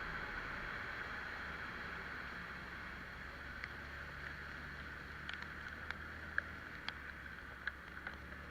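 Italika Vitalia 125 scooter riding in the rain: a steady hiss of wet road and airflow over a low engine hum. From about halfway on, scattered sharp ticks, like raindrops striking the camera.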